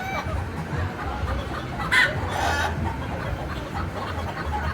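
Backyard birds calling in short bursts, the loudest about two seconds in, over a steady low rumble.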